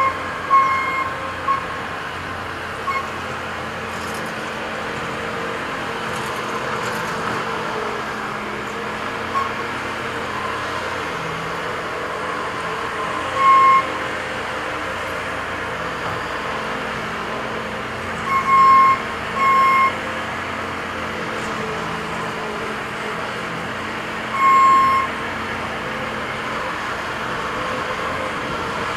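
Diesel engines of construction machines (a compact excavator and a skid steer) running steadily under load. Now and then a short, single, high electronic beep cuts in, a handful of times, like a machine's travel or backup alarm sounding briefly.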